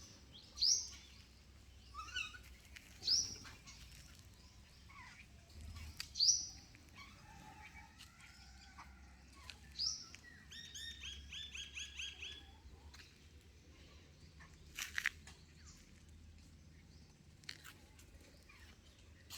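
Birds calling: short, sharp high calls every few seconds, with a fast chattering run of notes around the middle. A couple of short clicks come about fifteen seconds in.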